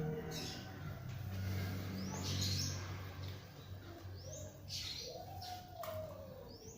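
A bird giving short, high, rising chirps about every two seconds, with a longer, lower call that falls in pitch near the end.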